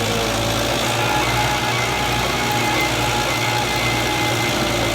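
Belarus tractor's diesel engine running steadily, driving a thresher, with an even low hum.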